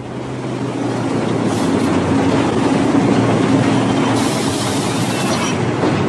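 A train running along the track: a steady rumble and clatter with a low hum, and a brighter hiss for about a second from around four seconds in.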